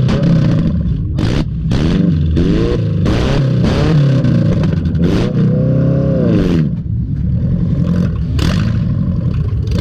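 Junk race car's engine revving up and down hard, with repeated short bangs and clattering over it.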